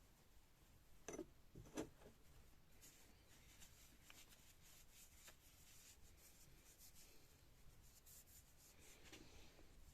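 Faint rubbing and scratching from hand work on the old chisel, with two light knocks about a second in and just before two seconds.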